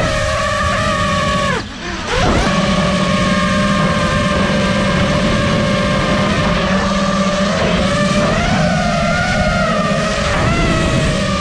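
FPV quadcopter's brushless motors and propellers whining, the pitch rising and falling with the throttle. About two seconds in the throttle is briefly cut, the whine dropping away, then punched back up.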